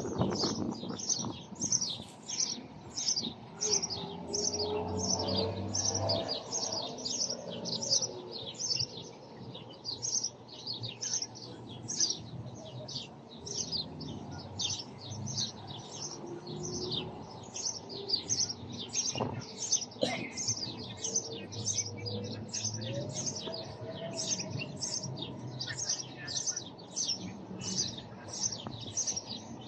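A bird calling over and over, a run of short, falling, high chirps repeating evenly two or three times a second.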